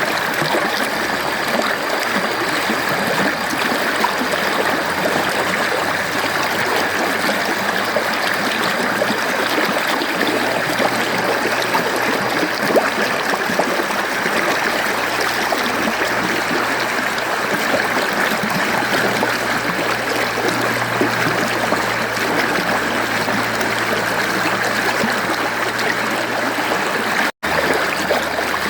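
Mountain stream flowing, a steady rush of running water. The sound drops out for an instant near the end.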